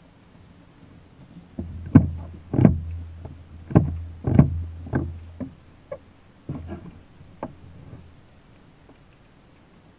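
A run of irregular knocks and thumps on a kayak hull, about a dozen over some six seconds, several of them loud, with a low rumble underneath.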